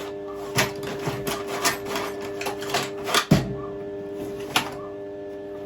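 Irregular metallic clicks and taps from handling metal parts, with one louder knock about three seconds in, over a steady electrical hum from the stick welder.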